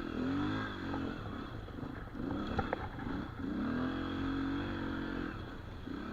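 Dirt bike engine revving up and down in short bursts as it is ridden, with a few sharp clicks a little past the middle.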